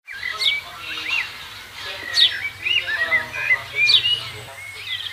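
Songbirds chirping and calling: a sharp, high falling whistle repeated about every second and a half to two seconds, among shorter warbling chirps, over a faint low hum.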